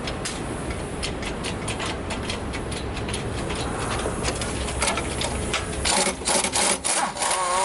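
Irregular metallic clicking and rattling of mechanical work on the car during an engine swap, growing faster and louder about six seconds in.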